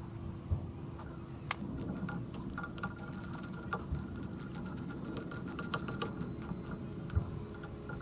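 Rapid light metallic clicking of a hand ratchet being worked, in quick runs, with a few louder knocks of tools against metal, over a steady low hum.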